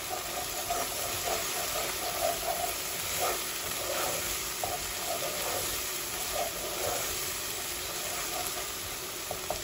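Half-cooked onions and ground curry and coriander powder sizzling in a non-stick pot, stirred with a wooden spatula: a steady frying hiss with small irregular stirring sounds.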